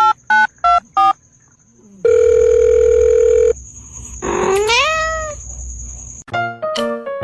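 A quick run of electronic beeps, like phone keypad tones, that stops about a second in, then a steady electronic tone held for about a second and a half, then a single rising cat meow. Piano notes start near the end.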